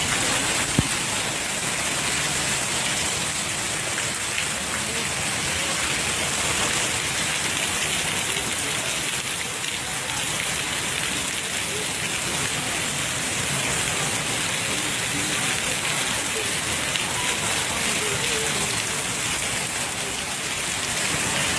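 Heavy rain falling steadily, a dense even hiss of rain on surfaces. There is one sharp click about a second in.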